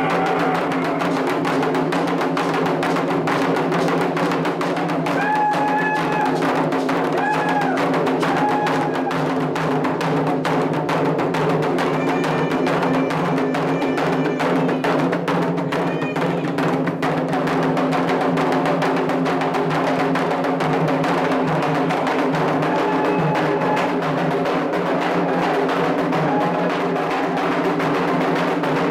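Candomblé hand drums playing a steady, dense ritual rhythm for Oxalá, with voices singing a chant over it at times.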